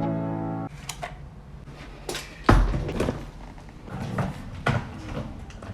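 A run of knocks and clatters in a small room, the loudest a heavy thump about two and a half seconds in, after a few bars of piano music that stop just under a second in.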